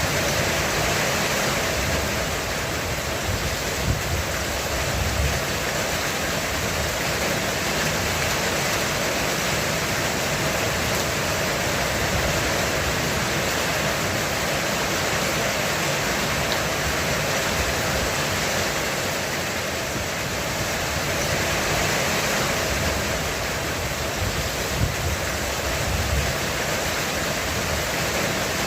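Heavy rain drumming steadily on a roof, an even hiss, with low rumbles of distant thunder swelling briefly a few seconds in and again near the end.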